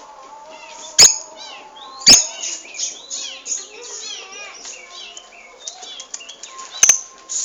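Lovebird chattering rapidly: a steady stream of short, high chirps and squeaky warbles. Three sharp clicks cut through it, about one and two seconds in and near the end.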